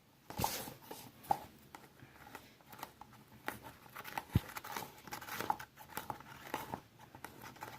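Glue and baking soda being stirred in a cup with a toothbrush: faint irregular scraping and small clicks of the brush against the cup as the slime mixture thickens.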